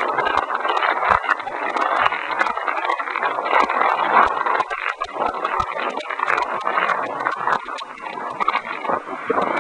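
Heavy storm rain driven by strong wind, with many irregular clicks of drops striking close to the microphone.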